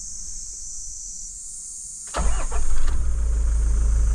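Toyota Land Cruiser 70's 2.8-litre four-cylinder turbodiesel starting about two seconds in: a short burst as it cranks and catches, then settling into a steady idle.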